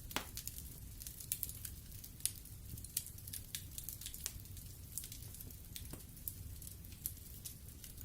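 Wood fire crackling in a fireplace: frequent irregular sharp pops and snaps over a low, steady rumble of the burning logs. A louder snap comes just after the start, and another a little over two seconds in.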